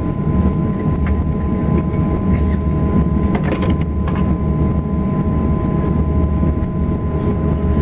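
Cabin noise of an Airbus A340 after touchdown: a steady low rumble from the engines and the aircraft rolling, with a few constant whining tones over it. There is a short rattle about halfway through.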